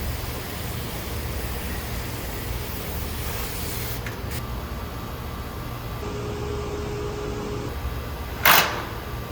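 A water hose spraying an AC condenser coil to rinse off built-up dirt: a steady hiss that cuts back about four seconds in, then one short loud rush of spray near the end. A steady low machine hum runs underneath.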